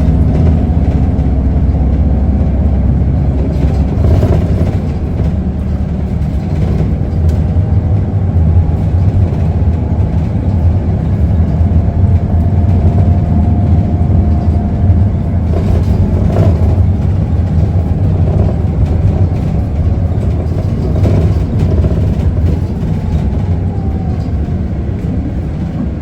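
Isuzu Erga city bus with its diesel engine running, heard from inside the cabin while under way: a steady low rumble of engine and road noise that swells and eases gently as the bus drives.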